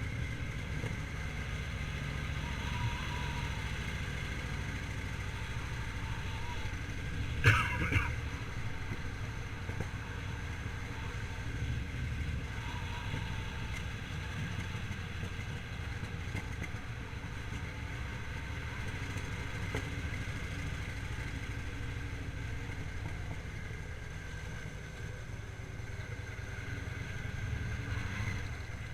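Victory V-twin motorcycle engine running steadily under way, a low rumble throughout, with one brief knock about seven and a half seconds in.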